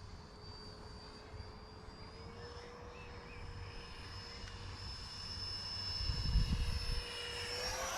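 Electric ducted fan (64 mm FMS unit on 4S) of a radio-controlled F-35 park jet whining steadily in flight, growing louder and rising sharply in pitch near the end as it comes closer or throttles up. A brief low rumble about six seconds in.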